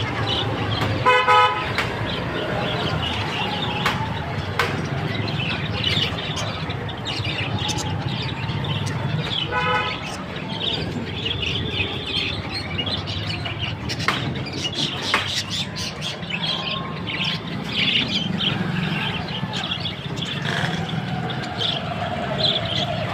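A flock of lovebirds chirping and chattering without pause over steady street traffic, with a vehicle horn honking briefly twice, about a second in and again about ten seconds in.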